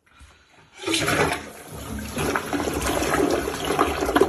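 Rushing, gushing water that starts about a second in after near silence and keeps going.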